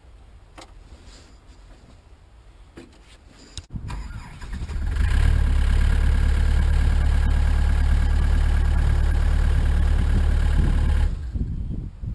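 The Yanmar diesel engine of a Takeuchi TB175 compact excavator starting from cold. After a few quiet seconds it comes up over about a second and runs loudly and steadily for about six seconds, then drops to a lower, uneven level near the end.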